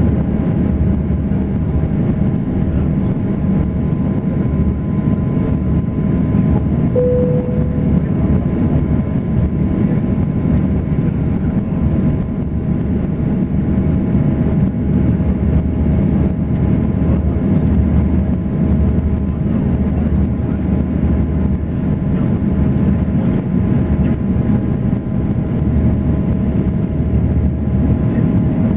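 Steady roar of an Airbus A340 airliner heard from the cabin in flight, a constant rush of engine and air noise with a low steady hum. A short single beep sounds once about seven seconds in.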